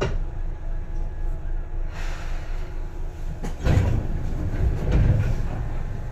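Seibu 2000 series electric train running, heard from inside the car: a steady low rumble of the running gear. A louder stretch of heavy clattering and thumping comes from about three and a half to five seconds in, with a few sharper clacks before it.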